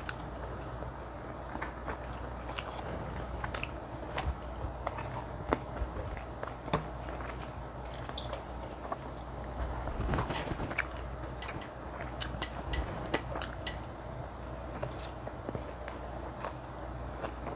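Close-miked biting and chewing of spicy mala xiang guo, with frequent short sharp clicks over a faint steady hum.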